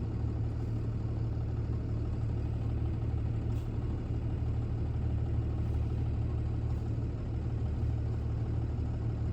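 Box truck's engine running with a steady low rumble.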